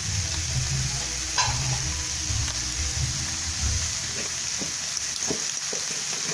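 Bamboo-shoot and egg lumpia filling sizzling steadily in hot oil in a wok, with a few faint knocks.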